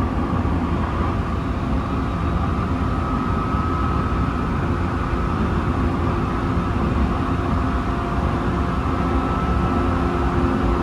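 Tsukuba Express electric train running steadily, heard from inside the car: a constant low rumble of wheels on rail with a faint steady whine above it.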